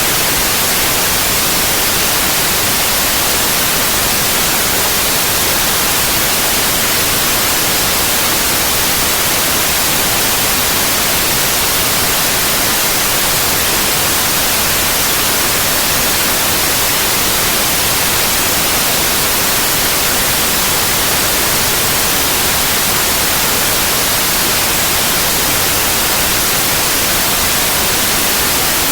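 Steady white noise: an even, loud hiss across the whole range of pitch, unchanging and without interruption.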